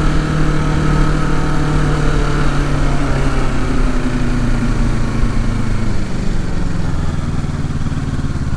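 Kawasaki Ninja 650 parallel-twin engine running under way. Its note shifts about three seconds in and eases off after about six seconds, as the bike slows.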